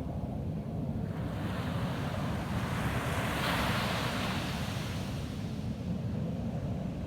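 Ocean surf on a beach: a wave's rush swells about a second in, peaks around the middle and fades away, over a steady low rumble.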